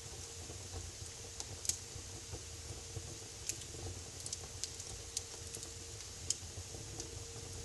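Wood fire crackling in a fireplace: a steady low rumble of the flames with irregular sharp pops and snaps, a few of them louder than the rest.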